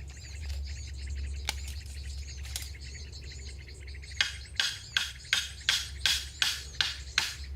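Small birds chirping in the forest. From about four seconds in comes a fast, even run of short strokes, about two and a half a second, which is the loudest sound.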